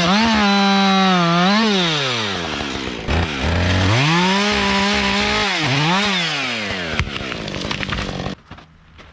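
Husqvarna 562 XP two-stroke chainsaw running at full throttle while bucking a small storm-downed tree. Its pitch dips briefly, drops to idle about three seconds in, revs back up, dips again, and cuts off abruptly near the end.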